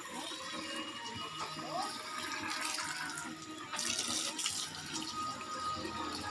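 Water from a hose spraying and splashing onto a motorcycle being rinsed, with a louder stretch of spray about four seconds in.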